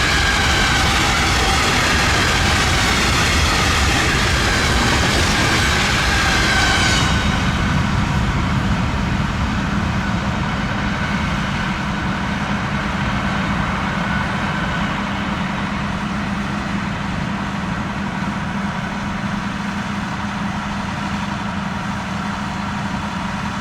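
A train running past: a steady heavy rumble with high ringing tones that slowly fall in pitch and stop about seven seconds in, leaving a steady low hum that eases slightly toward the end.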